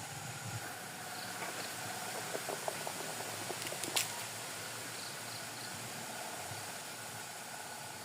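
Night insects chirring over a steady hiss, with a few faint chirps higher up. A scatter of small clicks comes a couple of seconds in, then one sharp click about halfway through.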